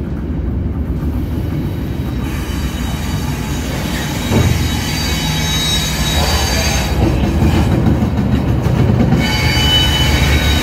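A train passing close by: a steady low rumble of the locomotive and rolling wagons, growing slightly louder. High-pitched wheel squeal comes in about two seconds in and again near the end, and there is a single thump about four seconds in.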